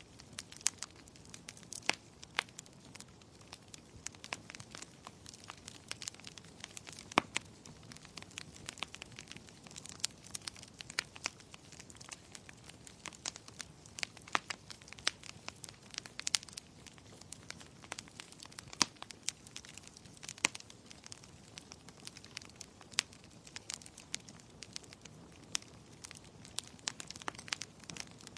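Firewood burning in a fireplace: steady crackling with irregular sharp pops, several a second, over a low hiss of the flames.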